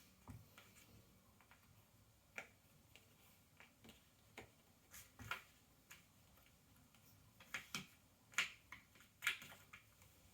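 Cardboard jigsaw puzzle pieces handled on a table: a scattering of light, sharp clicks and taps as pieces are picked up, set down and pressed into place. The clicks come more often in the second half.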